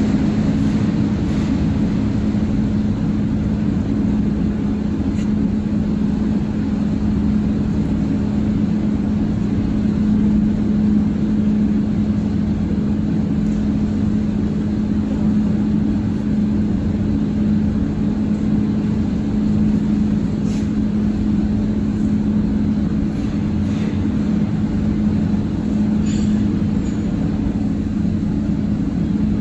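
Electric arc furnace running: a loud, steady rumbling noise with a constant hum, and a few faint ticks here and there.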